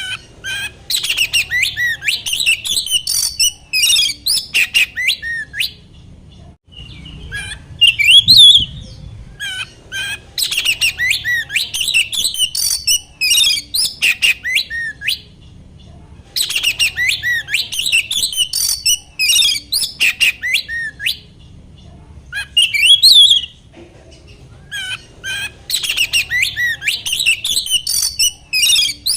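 Oriental magpie-robin (kacer) singing loud phrases of quick, varied whistles and chattering notes, each phrase lasting a few seconds and separated by short pauses. This is lure song, played to a caged magpie-robin to provoke it into singing.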